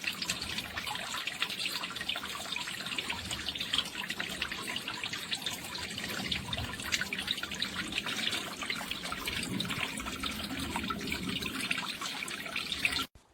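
Small solar-powered fountain pump spraying jets of water that fall back into a basin: a steady splashing and trickling, thick with fine drips, that cuts off suddenly near the end.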